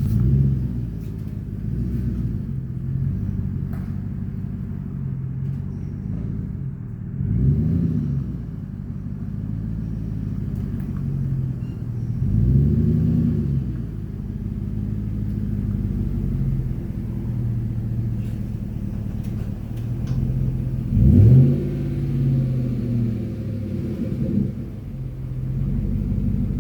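Pickup truck engine idling through a new Flowmaster FX exhaust, with a deep steady exhaust note. It is revved up and back down briefly several times, the biggest rev about three-quarters of the way through.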